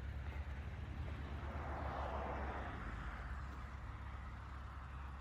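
Car engine idling: a low steady rumble, with a broader rush of noise that swells and fades around the middle.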